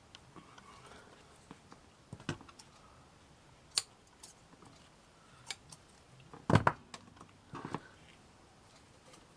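Hands working with small craft materials and tools on a tabletop: scattered light clicks and taps, with a louder knock about two-thirds of the way through.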